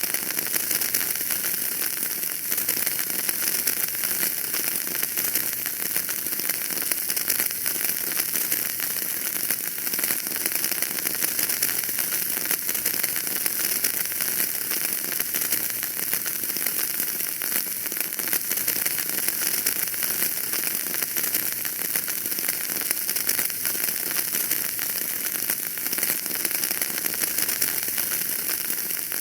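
Wood fire crackling steadily in a fireplace: a dense, unbroken run of small pops and snaps over a bright hiss.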